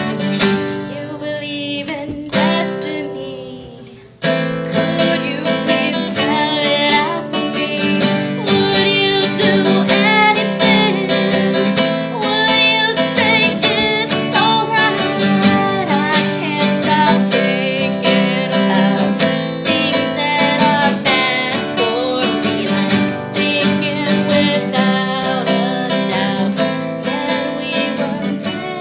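Acoustic guitar strummed with a woman singing over it. The playing fades away briefly about two seconds in and comes back in suddenly about four seconds in.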